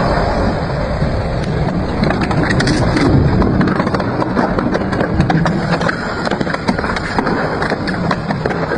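Double-shaft industrial shredder running under load, a dense continuous grinding with frequent sharp cracks and crunches as it tears through scrap.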